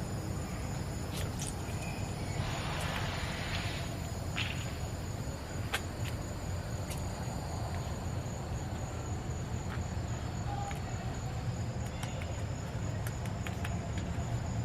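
Steady high-pitched insect chirring over a low steady rumble, with a few faint clicks.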